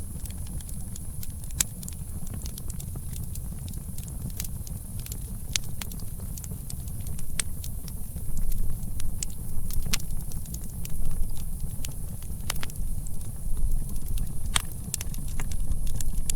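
Campfire crackling: irregular sharp pops and snaps over a low, wavering rumble of flames or wind that grows somewhat louder about halfway through, with a faint steady high hiss.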